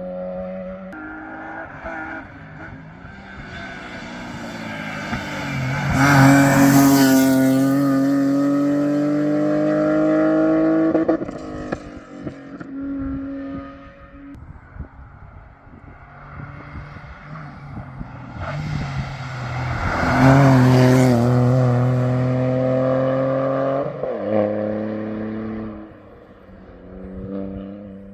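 Two rally cars pass one after the other at speed, the first about six seconds in and the second about twenty seconds in. Each engine note climbs in pitch as the car accelerates past, then drops away sharply.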